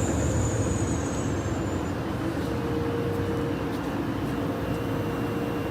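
Steady low mechanical hum and rumble of factory machinery. A faint high whine slides slightly down in pitch and fades out over the first two seconds, as the box tape-applying machine winds down after being stopped.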